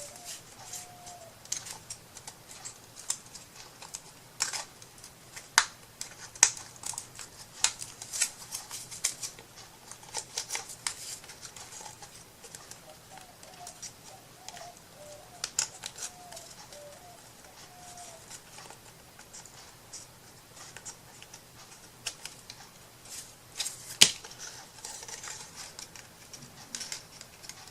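Scissors snipping paper in irregular sharp clicks, with paper handling between the cuts; one louder snap comes about 24 seconds in.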